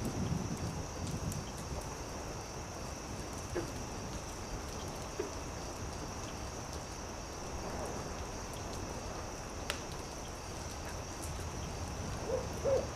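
Campfire crackling with scattered sharp pops over a steady chirring of crickets. Near the end an owl starts hooting in a run of short, repeated hoots.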